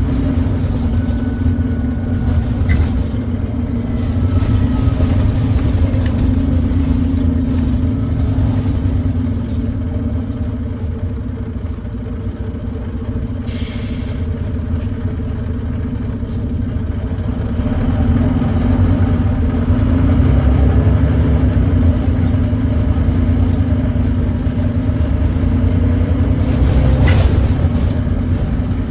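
Volvo D9B 9.3-litre diesel engine of a Volvo B9TL double-decker bus running under way, heard on board. Its exhaust leak gives the engine a thrashy note. The engine note swells a little over halfway through and again near the end, and there is a brief hiss about halfway through.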